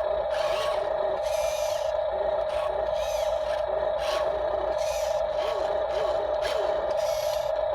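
Electric motor of a radio-controlled construction model whining at a steady pitch, with irregular scraping and clattering over it.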